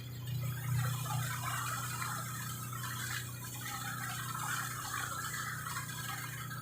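Ferry's engine humming steadily under a rush of water, with irregular splashing.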